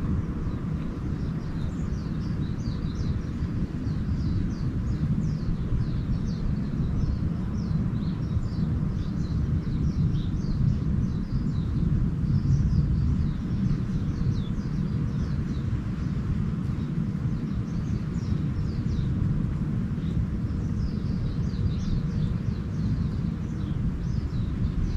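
Small birds chirping in short, quick falling notes, in clusters throughout, over a steady low rumble that is the loudest sound.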